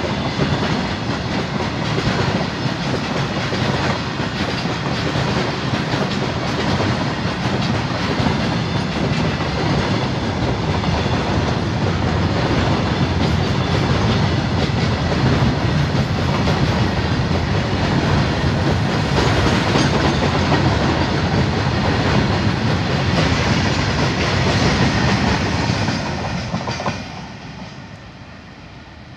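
Freight train wagons rolling past at speed, a steady loud noise of wheels running over the track. Near the end it falls away suddenly as the brake van at the tail goes by.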